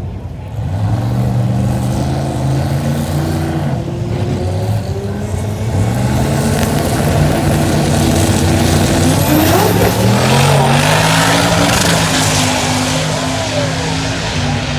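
Performance car engine accelerating hard, its pitch climbing through the revs and dropping back at several upshifts.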